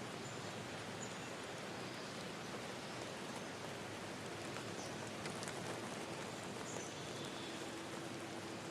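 Steady rushing of a forest river stream. Short, high bird chirps rise above it now and then.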